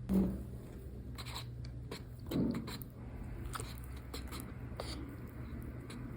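Light handling sounds, scattered small clicks and taps with two soft thumps, over a steady low room hum.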